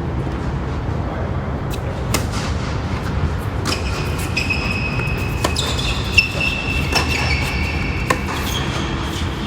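Tennis balls struck by racquets in a doubles rally: a series of sharp pops about a second apart, the loudest about six seconds in, over a steady low rumble.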